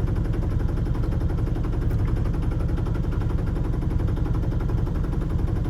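A sailboat's inboard engine running steadily, a low, even rumble.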